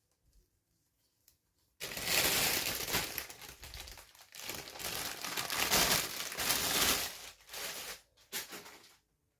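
Toy packaging being crinkled and handled in hands. The crackling starts suddenly about two seconds in and runs for about five seconds, then trails off in a few short bursts.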